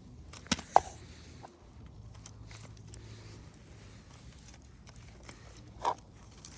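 Toy monster trucks being handled and set in place: two sharp plastic clicks close together near the start and another near the end, with faint handling noise between.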